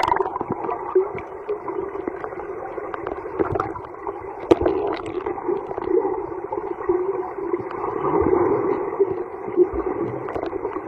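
Muffled underwater sound in a swimming pool: a steady murky wash of moving water and bubbles, dull and cut off in the highs, with a few sharp clicks and knocks.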